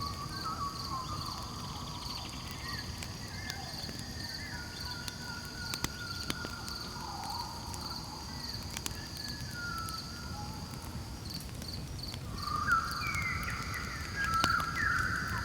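Night ambience around a crackling campfire: crickets trilling steadily and high, the fire giving off scattered sharp pops over a low rush. Several drawn-out whistling calls slide up and down in pitch through it, loudest near the end.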